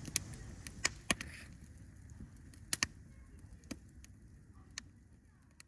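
Wood campfire crackling with sharp, irregular pops over a low rumble, fading out toward the end.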